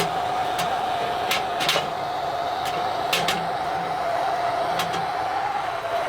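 Firewood crackling in a wood-burning stove: sharp pops at irregular moments over a steady hum and hiss.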